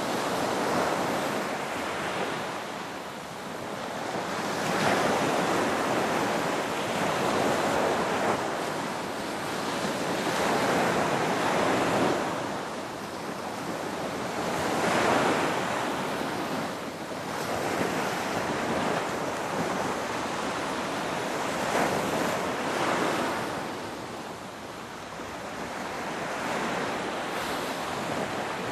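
Ocean waves breaking and washing in, a steady rush of surf that swells and eases every few seconds.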